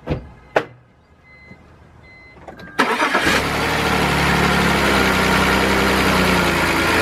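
Two clicks and a few faint chime tones, then about three seconds in the BMW 328i's inline-six cranks, catches and runs, settling to a steady idle. The engine runs smoothly, with the misfire gone after the loose injector rail was snapped back into place.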